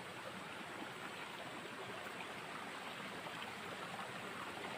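Steady rush of running water from a mountain stream, an even hiss with no breaks.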